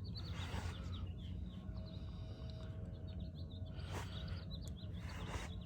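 Small birds chirping faintly over a steady low hum, with a single sharp click about four seconds in.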